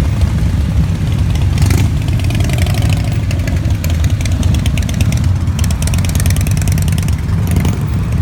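A procession of motorcycles riding past one after another, their engines running in a continuous low rumble, with individual bikes passing close now and then.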